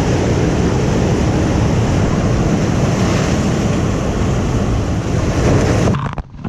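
Ocean surf washing in, heard as a loud, steady rush of noise mixed with wind on the microphone. It cuts off abruptly about six seconds in.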